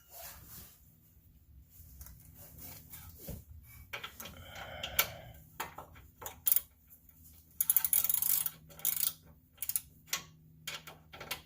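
Scattered clinks, clicks and knocks of metal tools and parts being handled, with a longer scraping, rattling stretch about eight seconds in.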